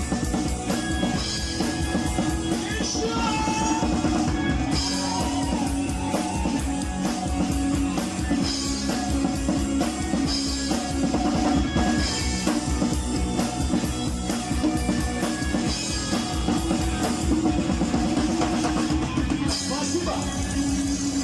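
Rock music: a band with drum kit and guitar playing steadily, mostly without lead vocals.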